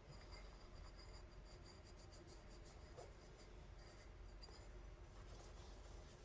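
Faint, irregular scratching and rubbing of hand work on a small carburetor part.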